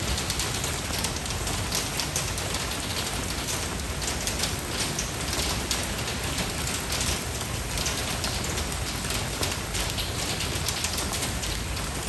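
Steady rain falling and pattering on a surface, a dense even hiss of many drops with no thunder or music.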